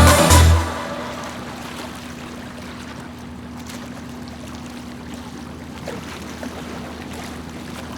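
Electronic dance music cuts off under a second in, leaving the on-board sound of a catamaran under way: a steady low engine hum under wind and water noise.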